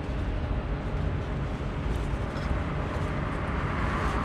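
Steady outdoor vehicle noise: a low rumble with hiss, swelling slightly near the end.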